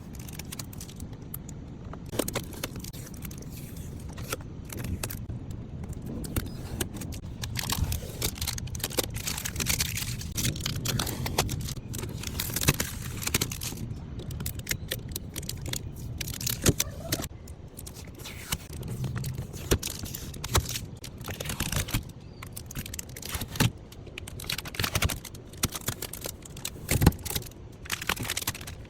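Irregular clatter of knocks, clicks and scrapes over a low rumble, as of things being handled and moved.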